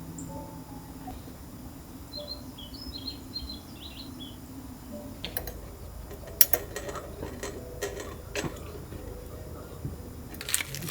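A small bird chirps several times in quick succession, then scattered sharp clicks and knocks of objects being handled, ending in a brief clattering clink near the end.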